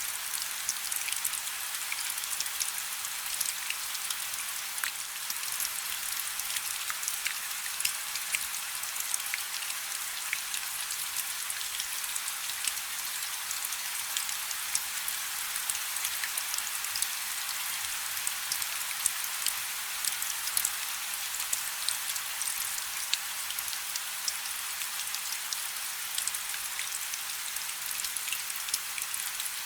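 Steady rain falling on a river's surface: an even hiss of rainfall with many small, sharp individual drop hits scattered through it.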